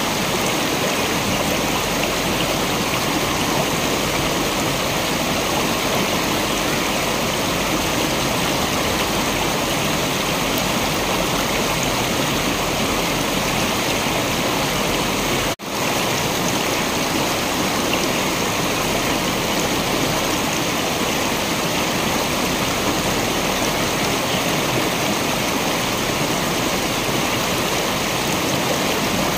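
Waterfall water rushing steadily in an even, unbroken roar, with one split-second dropout about halfway through.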